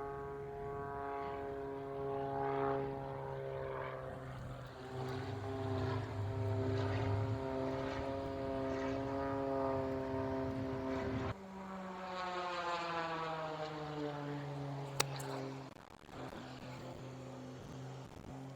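Propeller airplane engines droning overhead, a steady pitched drone with many overtones that shifts suddenly about eleven seconds in and then falls in pitch as the aircraft passes. A single sharp click near the end, a putter striking the golf ball.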